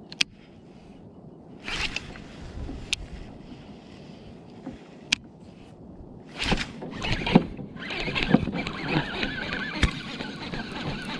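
Water splashing and sloshing against a kayak hull, with a few sharp knocks. About eight seconds in it becomes a louder, steadier wash of noise.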